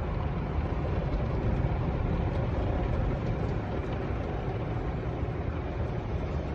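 Steady road and engine noise inside a moving car's cabin, a constant low rumble with no distinct knocks or changes.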